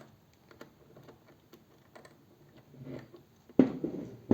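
Light scattered clicks and ticks of a small screw and parts being handled while a second screw is set into a motor's mounting lug, then a louder knock and brief rattle near the end.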